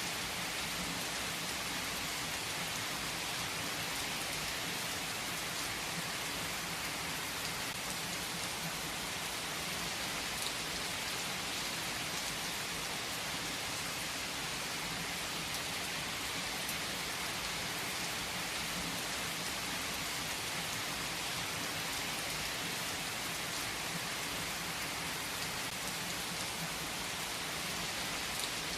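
Steady rain falling on a surface, an even hiss with a few sharper drop ticks.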